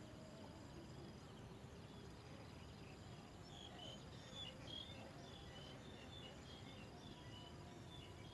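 Faint outdoor ambience: a thin, steady insect trill that breaks off now and then. From about three seconds in until near the end there is a run of quick, high bird chirps.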